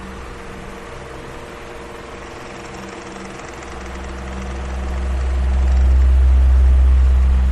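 Electric fan running, a steady motor hum under an even hiss of moving air. A deep rush of air that is faint early on swells loud again in the second half.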